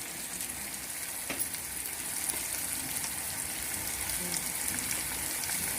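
Onion and tomato masala frying in hot oil in a kadai, with a steady sizzling hiss and one faint tick about a second and a half in.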